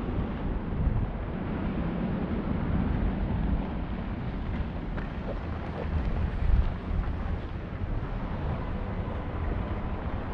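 Wind buffeting the microphone: a low, uneven rumble that swells in gusts, strongest a little past the middle.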